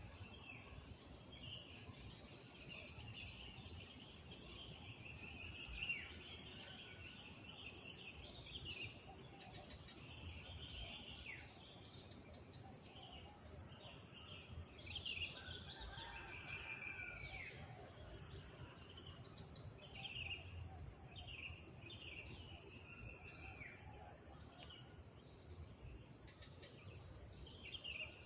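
Faint chorus of small birds chirping and twittering in many short, quick calls, over a steady high hiss.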